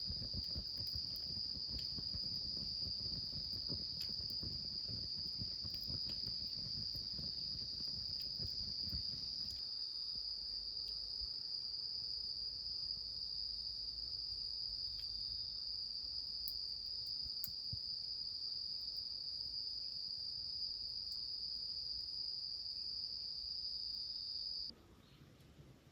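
Crickets or other autumn insects singing in a steady, continuous high chorus that cuts off abruptly near the end. Low crackling sits under the chorus for the first third.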